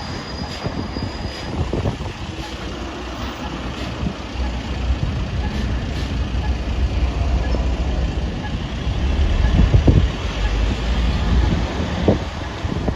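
Heavy truck passing on a dual carriageway, its engine rumble and tyre noise building to their loudest about ten seconds in, then easing off, with wind on the microphone.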